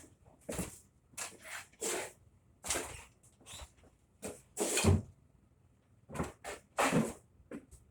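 Irregular knocks, scrapes and rustles of gear being handled and set down in a small room, about a dozen separate clatters with the loudest thumps about five and seven seconds in.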